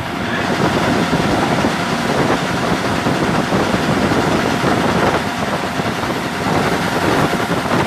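Mitsubishi 8DC10 V8 diesel engine running steadily at a fast idle, a loud dense clatter.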